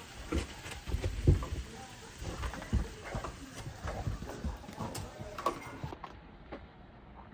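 Dogs playing in snow: irregular scuffs and soft thumps of paws and bodies, the loudest about a second in.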